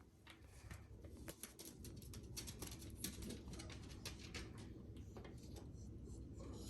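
A pet bird's soft calls with many small clicks and taps.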